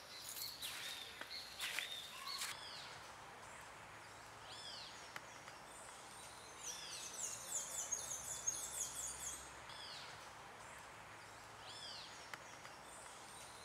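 Wild birds chirping faintly: short calls that rise and fall in pitch, repeated every so often, with a fast run of high twittering about seven to nine seconds in, over quiet background noise.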